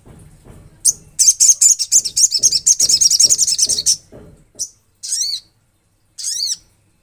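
Olive-backed sunbird singing: a fast, high trill lasting about three seconds, then two short, sharp sweeping notes.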